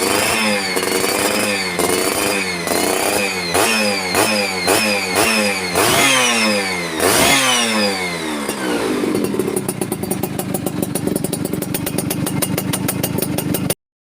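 Yamaha F1ZR two-stroke single-cylinder engine revved through its exhaust in quick repeated blips, one or two a second. It settles to a steady idle about nine seconds in, and the sound cuts off suddenly near the end.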